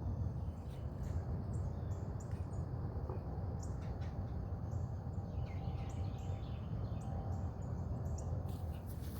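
Small birds chirping now and then in short notes over a steady low background rumble.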